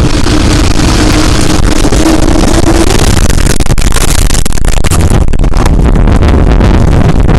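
Violent wind roaring and buffeting the microphone in a steady, loud rush, with a faint steady hum that drops out about three seconds in.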